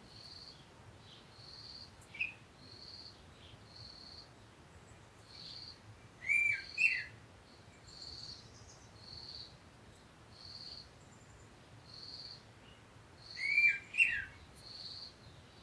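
Birds singing: a steady run of short, high chirps repeated about once a second. Louder downward-sliding calls come twice, about six seconds in and again near the end.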